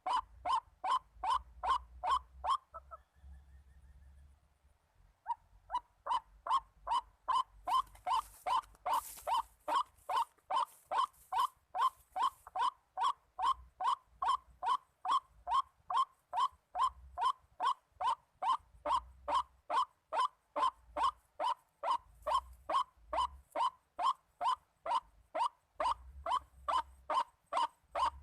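White-breasted waterhen (ruak-ruak) calls: a monotonous run of harsh 'kwak' notes, about two or three a second. The notes break off for a couple of seconds near the start, then go on steadily.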